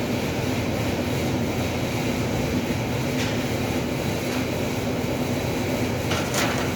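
Steady mechanical hum and rumble, with a short sharper burst of noise near the end.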